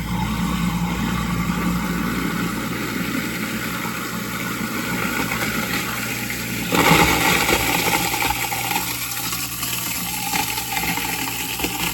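Garbage disposal running with ice and cold water in it: a steady motor hum under churning, grinding ice and water. About seven seconds in the sound turns suddenly louder and harsher, then eases back.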